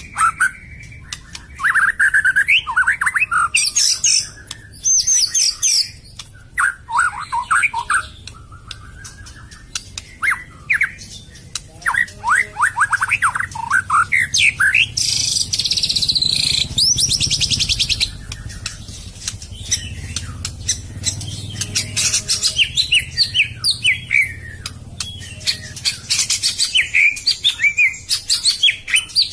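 A murai, a Copsychus songbird, singing a varied song of quick chirps, whistled phrases and fast rattling trills in bursts with short pauses between them.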